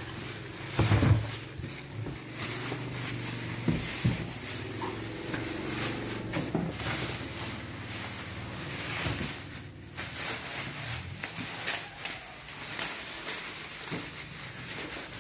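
Handling noise while unpacking a boxed speaker: a heavy thump about a second in, then irregular rustling, scraping and knocking of packaging and cardboard.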